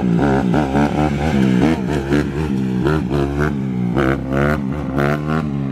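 Dirt bike engine revving up and down over and over, its pitch rising and falling every half second or so, with short sharp pops along the way.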